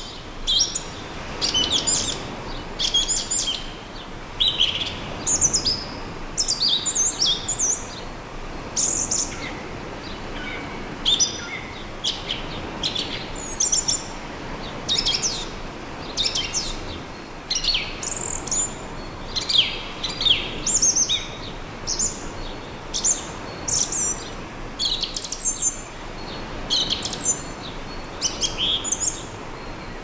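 Birds chirping and calling in quick high notes, one after another almost without pause, over a faint steady wash of calm sea on the beach.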